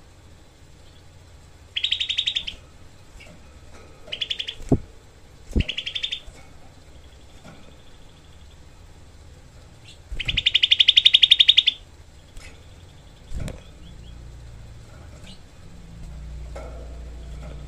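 Grey-bellied bulbul (cucak kelabu) giving rapid, harsh rattling trills in four bursts, the last nearly two seconds long. Two sharp knocks fall between the early bursts.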